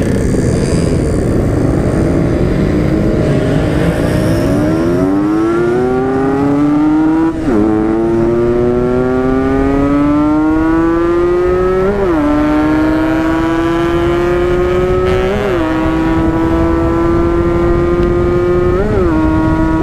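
Yamaha RX-King two-stroke single-cylinder motorcycle accelerating hard through the gears: the engine note climbs, dips briefly at each of four upshifts, then climbs again. Wind rushes over the microphone throughout.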